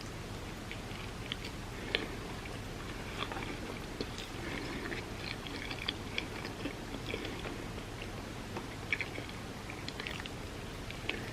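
Close-miked eating sounds: a person biting and chewing food, with scattered sharp crunches, the loudest about two seconds in and near nine seconds in.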